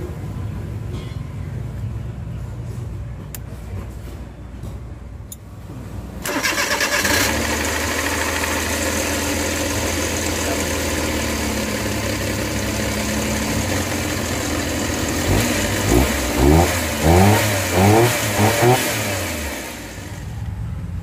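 Suzuki Multicab's fuel-injected K6A three-cylinder engine starting about six seconds in and running, then revved in five or six quick blips before dropping away near the end. It runs now that the faulty fuel pump causing the no-start has been replaced.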